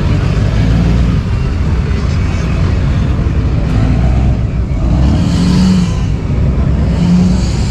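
Car engines running with a steady low rumble, with a brief rise in the higher sound about five seconds in.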